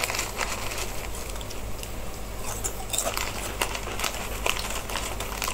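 Crispy Mikako snack pieces being chewed with the mouth closed: small, irregular crunches and crackles.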